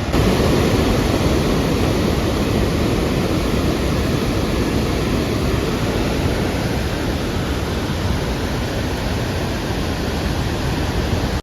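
Large waterfall heard up close: a steady, loud rush of falling water.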